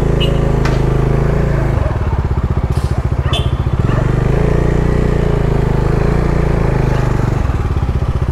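Bajaj Dominar 250's single-cylinder engine running as the motorcycle rides, its note changing about two seconds in, again about four seconds in, and near the end, as with gear or throttle changes. A few short clicks come through over it.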